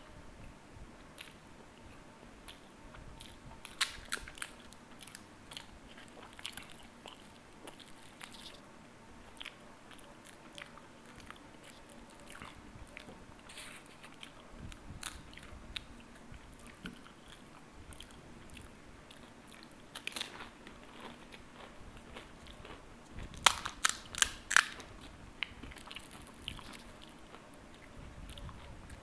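Pani puri being eaten: crisp, hollow puri shells crunching as they are bitten, with chewing between bites. The loudest crunches come about four seconds in and in a quick cluster about 23 to 25 seconds in.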